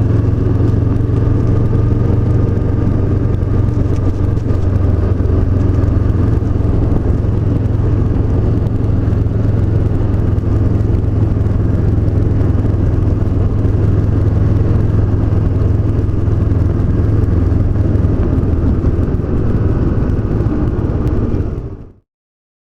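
Honda CB500X's 471 cc parallel-twin engine running at a steady cruise, with no revving or gear changes, then fading out quickly near the end.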